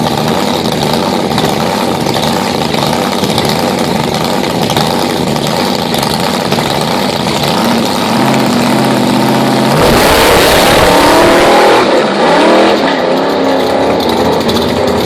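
A drag car's engine running loudly, held at higher revs for a couple of seconds, then launching about ten seconds in: a sudden louder blast, followed by engine pitch rising and dropping as it accelerates away.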